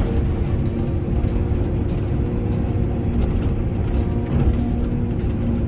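Excavator's diesel engine running steadily with an even hum.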